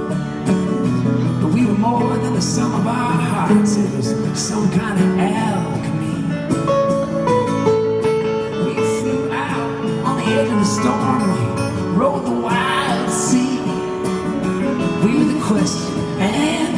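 Live band playing a country-flavoured folk song, with guitar prominent.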